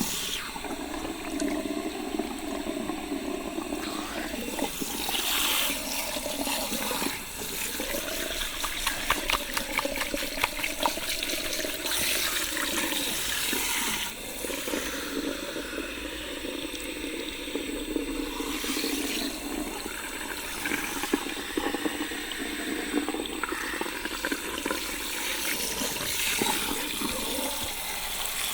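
Water from a salon shampoo-bowl shower sprayer running and splashing over a person's hair, with a few brief dips in the flow.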